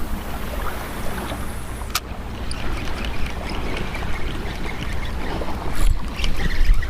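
A steady low engine hum under rushing water and wind noise, as of a motorboat under way, with a sharp click about two seconds in and another near the end.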